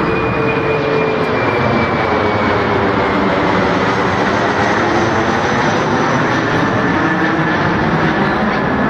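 Jet airliner passing close, a loud rushing engine noise with a whine that slides slowly down in pitch.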